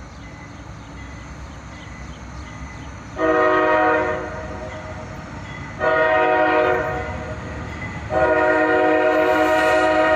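Multi-chime air horn of a CSX CM40-8 locomotive (a rebuilt GE Dash 8) leading a freight train, sounding three loud blasts over the low rumble of the approaching train. The first comes about three seconds in, the second about two and a half seconds later, and the third starts near the end and is held on.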